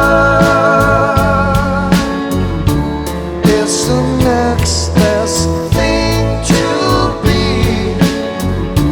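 Live band playing a slow rock song, with drum hits about every half second, bass and guitar, and a voice singing over them.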